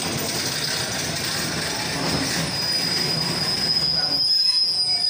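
Thai passenger train coaches rolling slowly past with the wheels rumbling. About halfway in, a single high, steady brake squeal sets in as the train slows to a stop.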